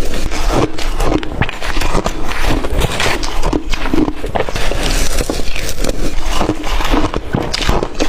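Blender-crushed ice being bitten and chewed close to the microphone: a dense, uneven run of crisp cracks and crunches.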